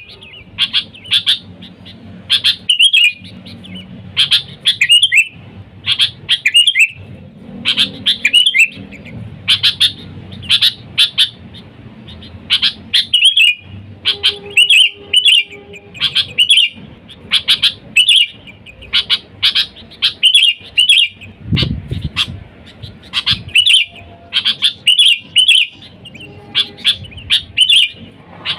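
Sooty-headed bulbul calling busily: quick bursts of short, bright chirping notes with brief pauses between phrases. These are its basic calls, used to call wild bulbuls in.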